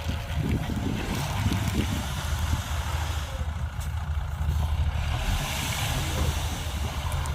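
Heavy diesel engine of a dump truck or bulldozer running with a steady low hum, with a hiss rising about five seconds in.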